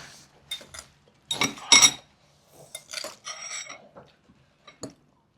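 Eating utensils clinking and scraping against bowls and a pot: a run of sharp clinks with short ringing tones, loudest about two seconds in, then a scrape and a few lighter taps.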